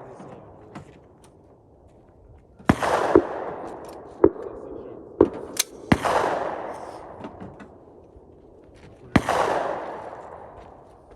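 Rifle shots: three loud shots about three seconds apart, each trailing off in a long echo, with several quieter, sharper cracks between the first two.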